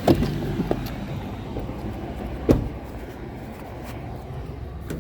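Vehicle engine running steadily with a low hum, with a few sharp knocks or thumps, the loudest about two and a half seconds in.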